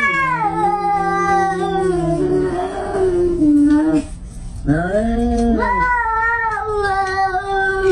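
A cat yowling in long drawn-out calls. The first is held for about four seconds, then comes a short rising-and-falling call just after the middle, then another long call that is still going at the end.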